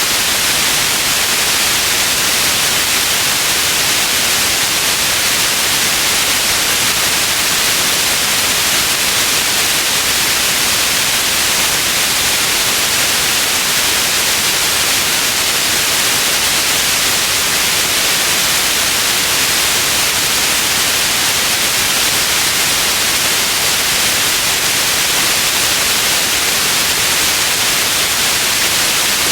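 Steady, unchanging white noise: an even hiss across the whole range, strongest in the treble.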